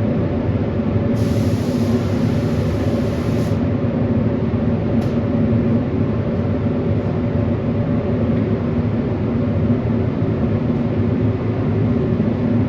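A machine motor running steadily with a low, even hum.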